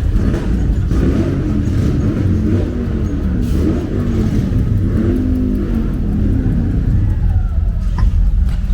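Car engine running with a steady low rumble, its pitch rising and falling a few times between about one and six seconds in.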